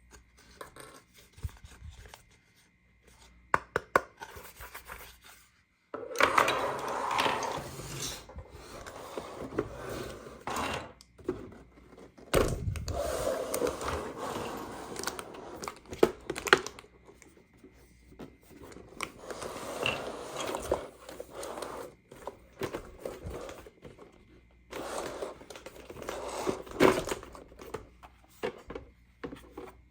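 Toy packaging being opened and handled: plastic and cardboard tearing, crinkling and scraping in bursts of a few seconds, with sharp clicks between.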